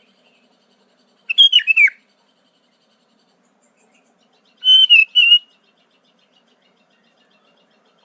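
Sooty-headed bulbul (kutilang) singing two short whistled phrases about three seconds apart, each a quick run of gliding notes.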